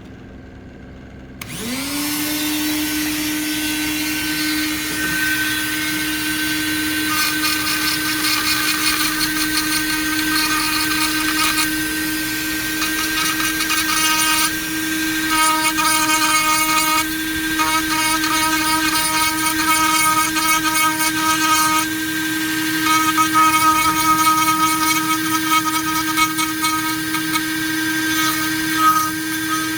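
Dremel rotary tool on a flex shaft spinning up about a second and a half in, then running at a steady whine while its bit carves a pine board in repeated spells of grinding with short breaks.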